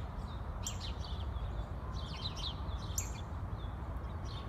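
Pet bird calling with several short, sharp chirps while it eats, over a steady low hum.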